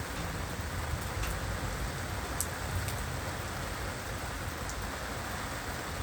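Heavy rain falling steadily, a dense hiss over a low rumble, with a few sharper drops striking close by.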